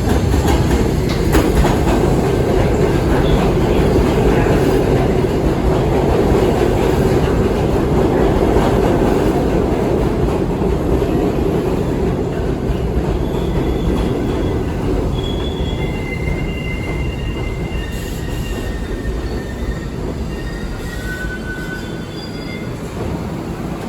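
New York City subway train running on the rails with a steady loud rumble that slowly fades, and short high-pitched wheel squeals coming and going through the second half.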